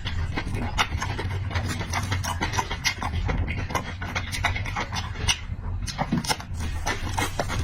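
Close-miked chewing and lip-smacking, a fast irregular run of short wet clicks, over a steady low hum.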